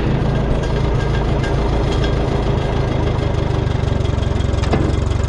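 Minneapolis Moline tractor engine running steadily while being driven in third gear, with a low, even firing beat. A single sharp click comes near the end.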